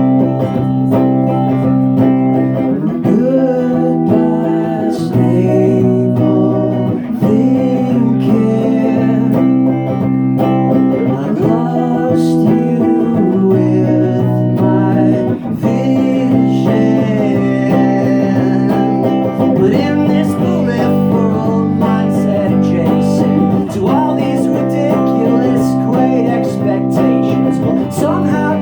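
Live guitar music: sustained chords ring under a shifting melodic line, with no sung words.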